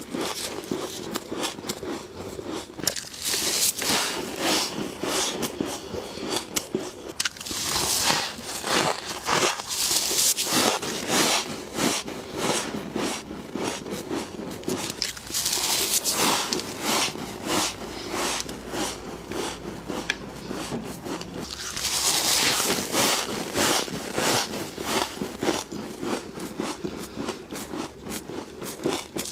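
Close-up crunching and chewing of fluffy humidifier frost, a dense crackle of small crunches with louder crunchy bites every few seconds.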